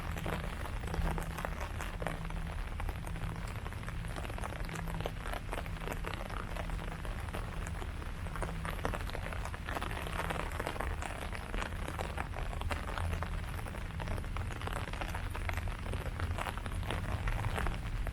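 Steady rain falling on leaves: a dense, even patter of many drops, with a low rumble underneath.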